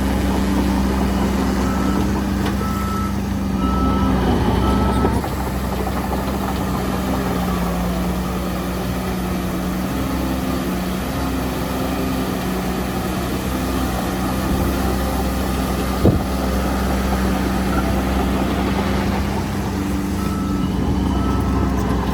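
Heavy diesel construction machinery running steadily, with a reversing alarm beeping in short repeated beeps for a few seconds near the start and again near the end. A single sharp knock about two-thirds of the way through.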